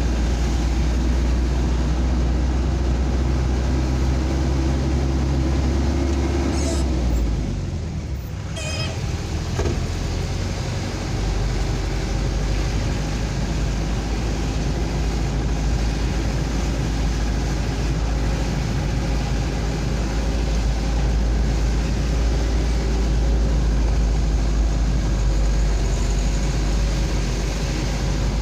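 Road vehicle driving with a steady engine and road rumble. About seven seconds in, the low engine note drops away for a couple of seconds, then the steady rumble comes back.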